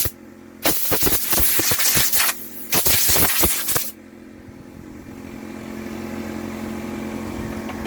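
Compressed air blasting from an air-compressor blow gun in two bursts, about a second and a half and then about a second long, blowing out a chainsaw's bar oil inlets. A steady low hum runs underneath.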